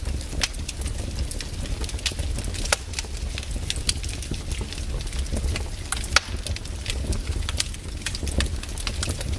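Wood campfire burning, crackling with sharp, irregular pops over a steady low rumble.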